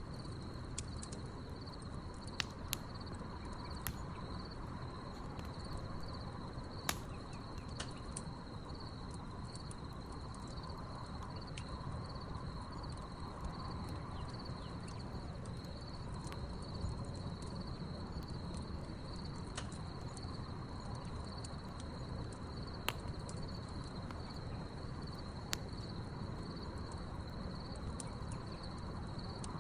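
Wood campfire crackling with a low steady rustle and a few sharp pops spread through, under a steady chorus of crickets chirping.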